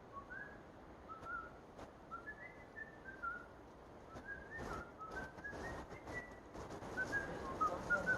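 A string of short whistled notes, each gliding up or down in pitch, with gaps between them; a few sharp clicks come about halfway through, and the notes grow busier and louder near the end.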